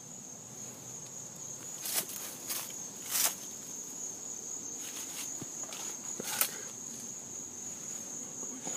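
Insects chirring in one steady, high-pitched drone, with a few footsteps scattered through it, loudest about two and three seconds in.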